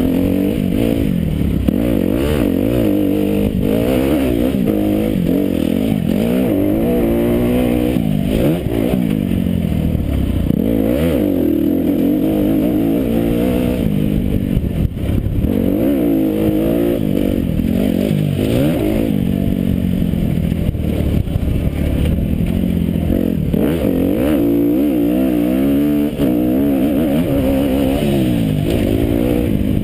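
Motocross bike engine revving up and dropping back over and over as the rider accelerates, shifts and slows round a dirt track, picked up close from a camera mounted on the bike. Wind noise and knocks and rattles from the bumps run under it.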